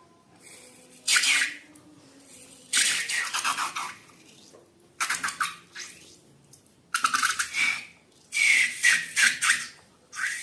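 Slime being squeezed and squished by hand in repeated wet, crackly squelches, about one every one and a half to two seconds, each with a quick run of small popping clicks from trapped air.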